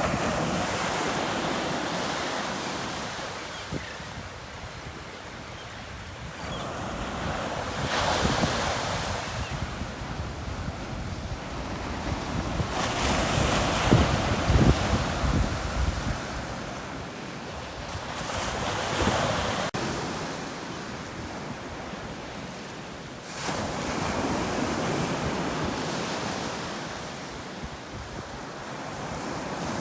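Ocean surf: waves breaking on the shore in slow, repeated surges, about five in turn, each swelling into a rushing crash and then washing back.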